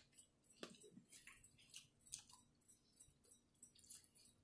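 Faint close-up chewing of food, a scattered string of soft clicks.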